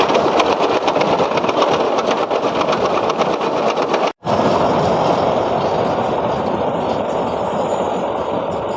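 Dasmesh 912 rice combine harvester running on its John Deere 5310 tractor, engine and threshing machinery going together with a fast, even rattle. The sound cuts out for an instant about four seconds in, then runs on steadily.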